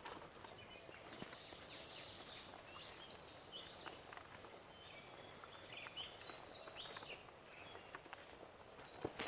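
Faint birds chirping and trilling in a quick run of short high notes, with a few footsteps on the trail near the end.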